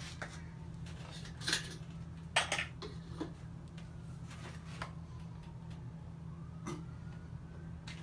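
A few scattered light clicks and knocks of hard objects being handled, over a steady low hum.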